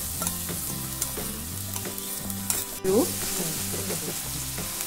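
Chopped onions and green chilli-ginger-garlic paste sizzling in hot oil in a stainless steel kadhai as a wooden spatula stirs and scrapes, with one sharp knock about three seconds in. Soft background music with a low bass line runs underneath.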